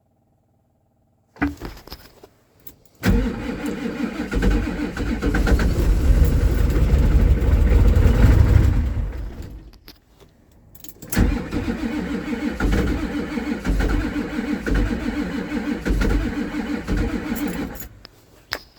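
A 1988 Ford F-Super Duty's 7.3 IDI V8 diesel being cranked over in deep cold on weak batteries. There is a short bump about a second in, then a long cranking attempt that swells louder and dies away after about six seconds. A second pulsing attempt starts about eleven seconds in and stops near the end.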